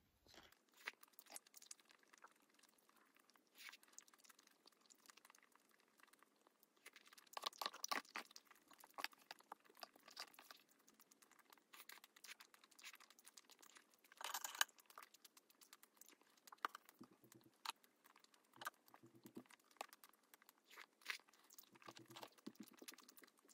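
Quiet close-up eating sounds: chewing and mouth smacks while eating tteokbokki rice cakes and boneless chicken feet in spicy sauce, with scattered clicks. The clicks bunch up about eight seconds in, one burst is sharper around fourteen seconds, and there are a few short low hums near the end.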